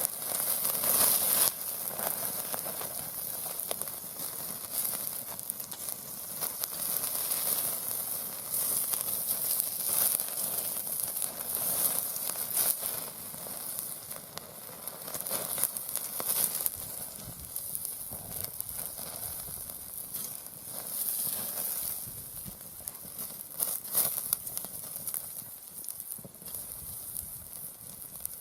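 Sliced pork loin sizzling and spitting as it cooks over a wood fire in a fire pit, with small crackles throughout, easing a little in the second half.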